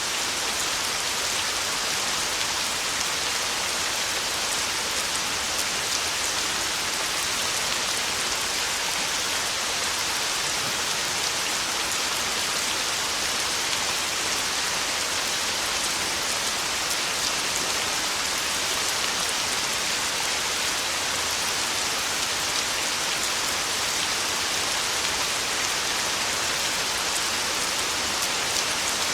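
Heavy rain falling steadily, an even hiss full of small drop impacts, with no thunder.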